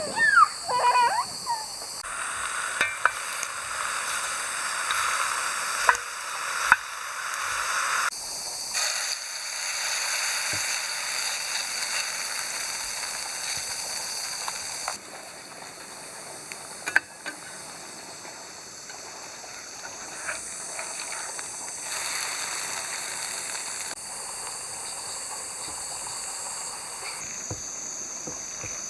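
Vegetables sizzling and frying in a pan over a campfire, with now and then a click or knock of a utensil; the sizzle changes abruptly in level several times.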